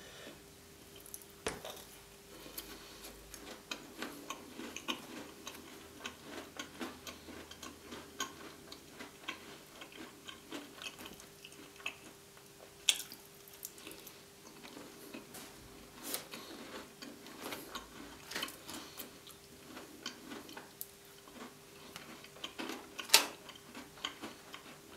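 Close-miked chewing of custard-soaked gingerbread: irregular soft crunches and wet mouth clicks, over a faint steady hum.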